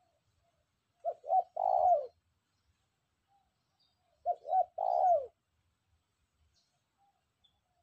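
Spotted dove (tekukur) cooing twice, about three seconds apart. Each call is two short coos followed by a longer coo that falls in pitch. The bird was caught only days ago and is already calling freely.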